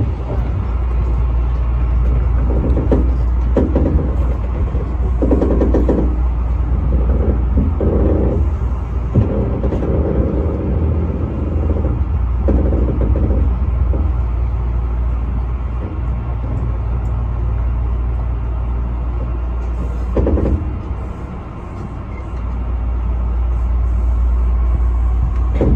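Tobu 8000 series electric train heard from inside the driver's cab, running into a station with a steady low rumble. Short bursts of a higher, pitched tone come and go through the first half and once more later.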